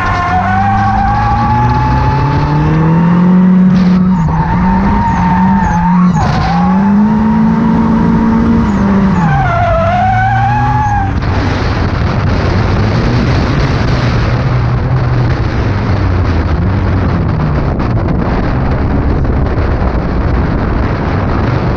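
Drift car engine revving hard, its pitch climbing and dropping repeatedly as the throttle is worked. About 11 seconds in, a steady rushing noise takes over, with the engine running lower underneath.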